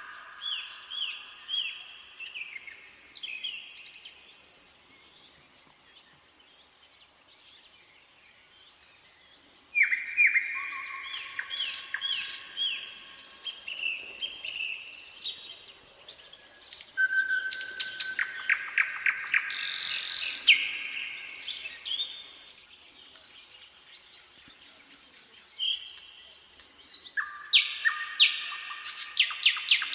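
A nightingale singing in phrases of rapid repeated notes and trills, with a few seconds' pause early on, then a long run of phrases and another burst of song near the end.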